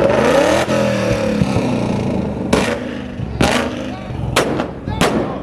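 Car engine revving hard at a car meet, rising in pitch at first, then a string of about five sharp exhaust bangs in the second half.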